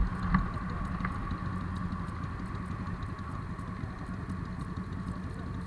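Motorcycle engine idling steadily, with a couple of short knocks in the first second.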